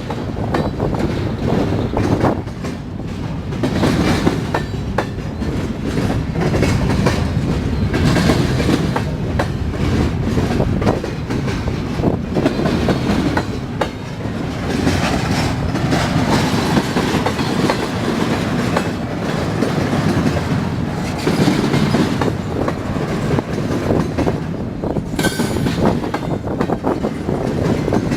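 Railroad cars rolling past at close range, a steady rumble with wheels clacking over rail joints. There is a brief high-pitched squeal near the end.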